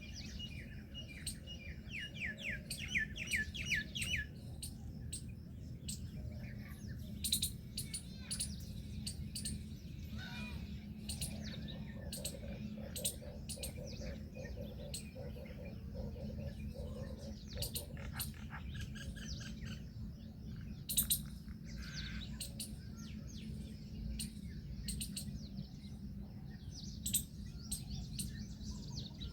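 Birds chirping and calling, with a quick run of about a dozen repeated chirps in the first few seconds and scattered calls after, over a steady low rumble.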